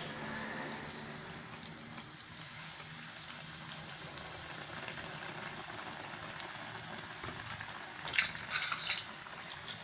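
Stuffed bread bondas deep-frying in hot oil, sizzling steadily with fine crackles, and a louder burst of crackling about eight seconds in.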